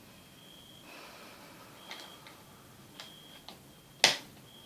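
Light clicks and one sharp, loud click about four seconds in, from handling the opened Acer Aspire One D250 netbook and its parts. A faint, short, high beep recurs about once every second and a half.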